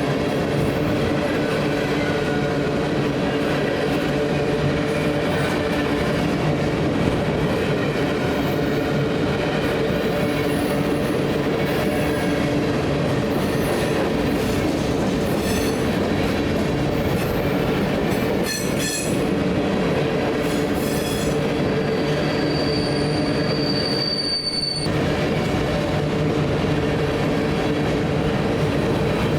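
A train rolling past on the BNSF line with a steady, loud rumble of wheels on rail. Thin wheel squeals come and go, and one high, held squeal lasts about three seconds near the end.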